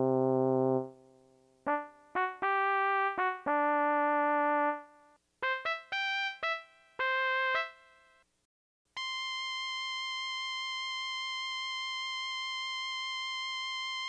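Electronic keyboard tune of short separate notes. After a brief pause about eight seconds in, one high note is held steadily for about five seconds and then cut off.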